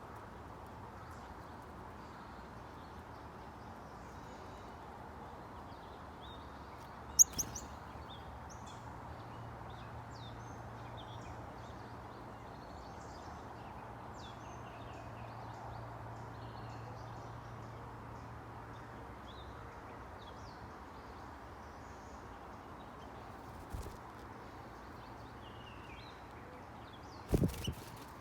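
Small birds chirping and calling at a bird feeder over a steady outdoor hiss. Sharp knocks come about 7 seconds in and again near the end, a few in quick succession each time.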